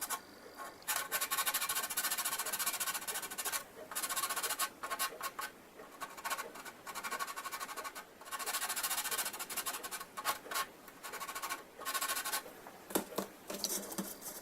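Hand sanding of green putty on a plastic scale-model airframe: runs of quick rasping back-and-forth strokes with short pauses between them.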